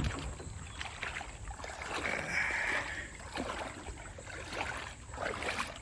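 Water splashing and sloshing around a kayak in a shallow creek, with irregular small splashes and knocks and a brief louder rush of water about two seconds in.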